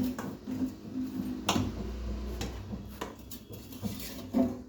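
A few sharp knocks and clicks, about a second and a half apart, from kitchen dishes or a bowl being handled and set down, over a low steady background.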